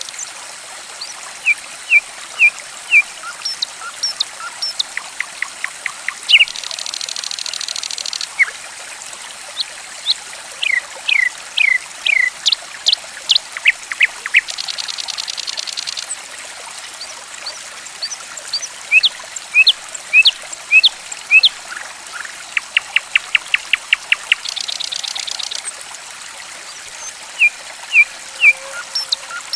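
Songbird calls over gently trickling water. Short, high, sharply falling whistled notes come singly and in quick runs, mixed with rapid rattling pulse series and, three times, a buzzy trill lasting a second or two.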